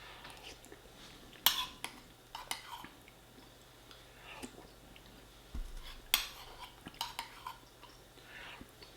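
Cutlery clinking and scraping against a plate while eating, with two sharper clinks, one about a second and a half in and one about six seconds in.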